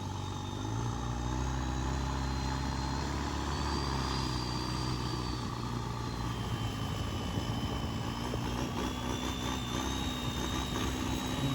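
Longtail racing boat's Isuzu turbodiesel engine running steadily, with a thin high whine that slowly rises and falls.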